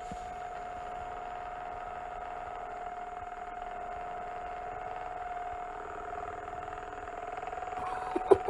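A steady mechanical hum with one clear tone, like a small motor running, and a few sharp knocks near the end.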